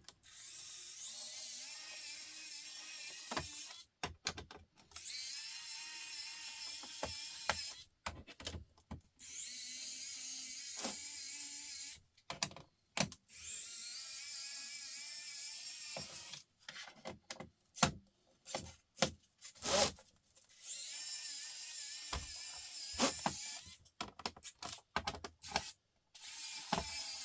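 Small battery-powered electric screwdriver running in repeated bursts of one to three seconds, backing screws out of a laptop's casing, with sharp clicks and knocks between the bursts.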